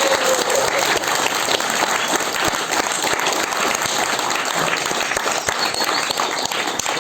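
Theatre audience applauding steadily, dense clapping from many hands.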